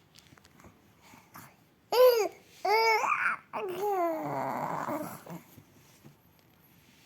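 Four-month-old baby cooing: two short arching coos about two seconds in, then a longer drawn-out coo ending about five and a half seconds in.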